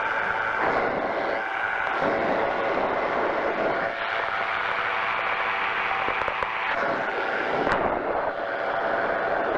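Powered parachute's engine and pusher propeller running steadily in flight, its tone shifting a few times.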